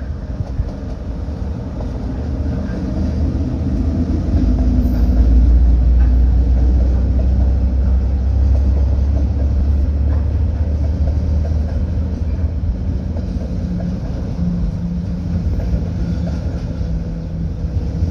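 Train hauled by a KiwiRail DL class diesel locomotive rolling past close by: a steady low rumble that swells about four seconds in, then slowly eases off.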